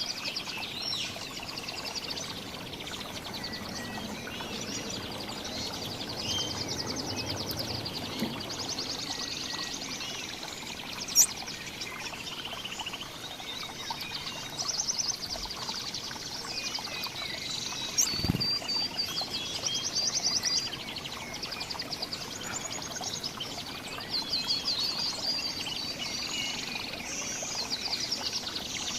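Several small songbirds chirping and trilling over one another, with fast repeated high notes throughout. A single sharp click stands out about eleven seconds in, and a short low thump comes a few seconds later.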